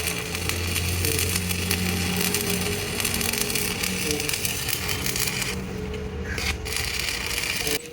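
Steel truck axle spinning on a lathe while a cutting tool shaves it, a harsh continuous scraping over a low motor hum. The cutting noise thins out briefly a little after halfway, then returns, and cuts off abruptly just before the end.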